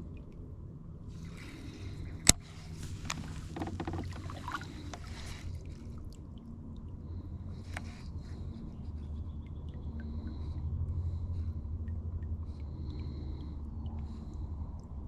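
Sounds of a fishing kayak on the water: a steady low rumble, one sharp knock about two seconds in, then a few seconds of noisy rustling and a lighter click later.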